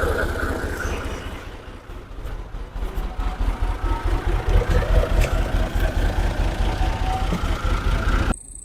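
Fiat 480 tractor's three-cylinder diesel engine running with a rapid, even chug. It dips about two seconds in, then runs louder and steadier before cutting off abruptly near the end.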